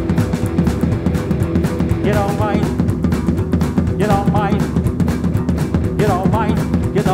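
Rock band playing live: drums, bass and electric guitar, with a sung melody coming in about two seconds in, in short phrases.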